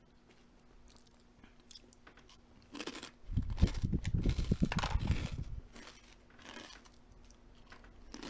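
Crunchy chewing and biting of food: quiet at first, then a couple of seconds of loud crunching from about three seconds in, fading away again.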